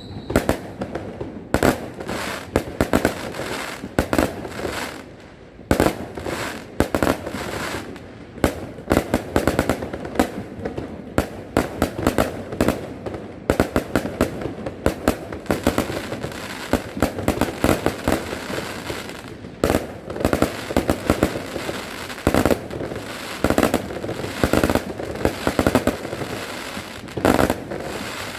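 Fireworks display: a rapid, unbroken barrage of bangs with crackle between them.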